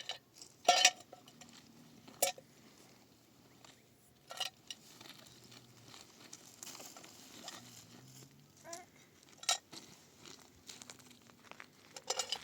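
A few sharp knocks and clatters, spaced out over several seconds, the loudest about a second in.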